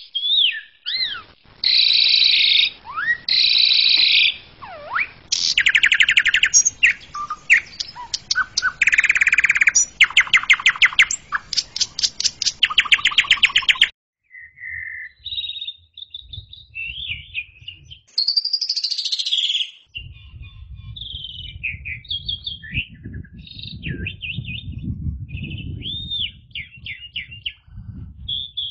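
Javan pied starling (jalak suren) singing a loud, varied song of whistles, rapid chattering trills and sweeping slurs. About halfway through it stops abruptly, then carries on in shorter phrases with a low rumble underneath.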